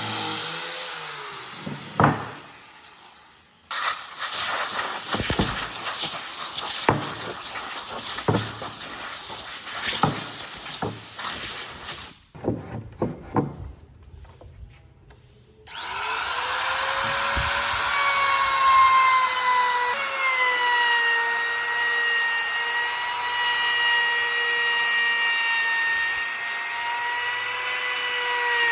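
Power tools working wood. There is a stretch of rasping full of sharp ticks, then from about sixteen seconds a motor running with a steady whine.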